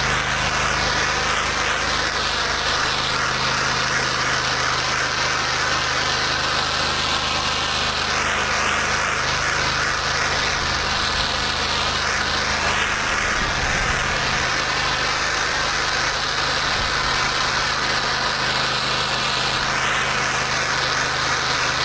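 Pressure washer's gas engine running steadily under a continuous hiss of high-pressure water spray.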